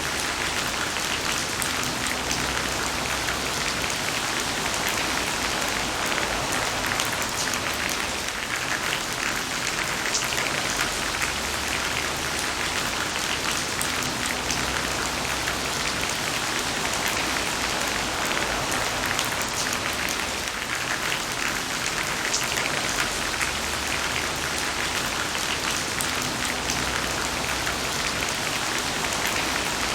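Heavy rain falling steadily in a dense, even patter of drops, with a low rumble that swells and fades every few seconds underneath.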